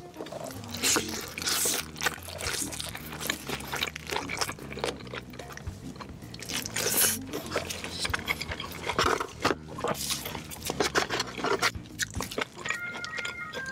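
Close-miked biting, crunching and chewing of crispy fried food, with loud crunches at irregular intervals over soft background music.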